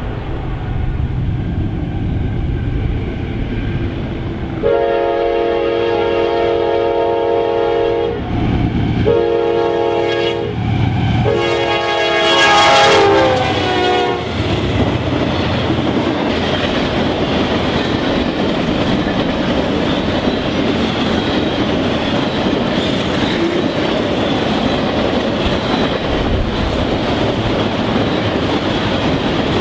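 Freight train locomotive horn sounding three blasts, the last one dropping in pitch as the locomotive passes. Then the train rolls by steadily with its wheels clicking over the rail joints.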